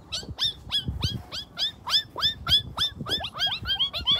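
A bird calling over and over in a fast, even series of short rising-and-falling chirps, about five a second, with a few dull low thumps underneath.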